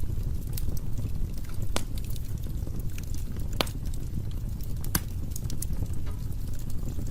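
Wood fire burning in a fireplace: a steady low rumble of the flames with scattered sharp crackles and pops, a few louder ones about two, three and a half, and five seconds in.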